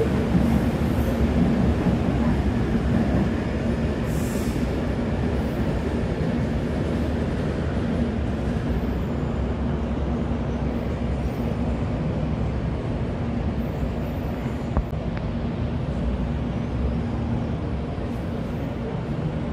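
Electric commuter train running along the station track: a steady rumble of wheels on rails with a constant motor hum, a little louder for the first few seconds and then easing.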